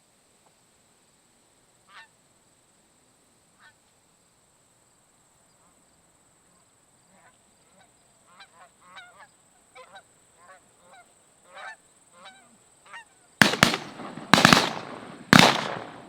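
Geese honking as they come in, the calls growing more frequent and louder, then a volley of shotgun blasts near the end, several shots within about two seconds.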